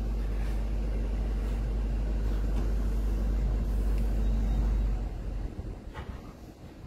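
A vehicle's engine running with a steady low rumble, which stops about five seconds in, leaving quieter outdoor noise.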